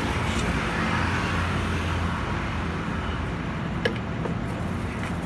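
Steady low rumble of road traffic, with a single sharp metallic click a little under four seconds in.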